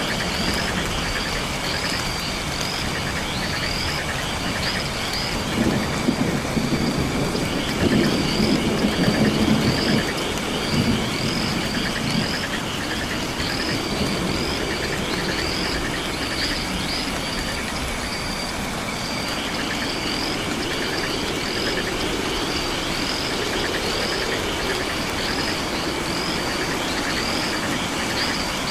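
Layered night-time rainforest ambience: frogs and insects calling with rapidly repeated high chirps and a steady pulsing trill over a constant rain-like hiss. Low rumbling swells come up about six seconds in and fade by about eleven.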